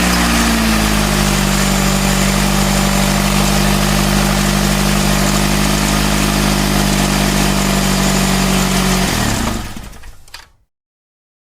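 Engine running steadily at one pitch, then winding down in pitch and fading out about nine to ten seconds in.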